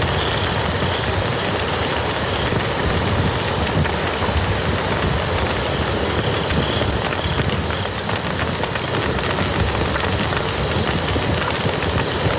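Campfire crackling over the steady rush of a river, with a few faint high chirps.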